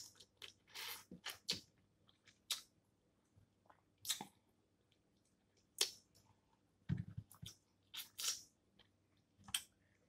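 Close-up eating sounds from snow crab legs: scattered crunches, cracks and wet clicks of chewing and shell, with a deeper thump about seven seconds in.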